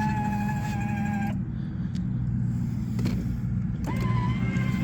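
Electronic horn of a Let's Go Ride 24-volt ride-on toy dump truck sounding twice, each a held beep-like tone. The first is already sounding and stops about a second and a half in; the second starts about four seconds in. A steady low hum runs underneath.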